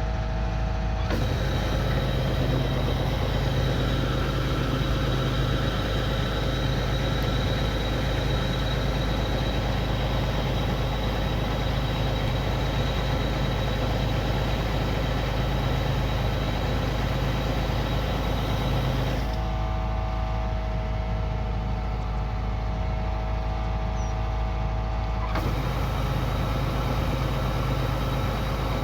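Kubota combine harvester's diesel engine running steadily while harvesting rice, a constant low hum with steady whining tones above it. The sound shifts abruptly about a second in, again around nineteen seconds, and once more around twenty-five seconds.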